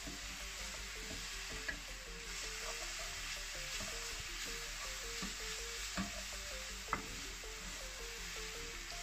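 Grated coconut cooking in brown sugar syrup sizzles steadily in a metal pan as it is stirred with a wooden spoon, the spoon knocking the pan a few times. The syrup is cooking down around the coconut as the candy nears done.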